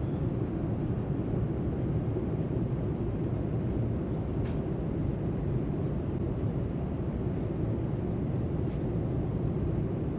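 Cabin noise of a Boeing 787-9 airliner: a steady low rumble of engines and airflow.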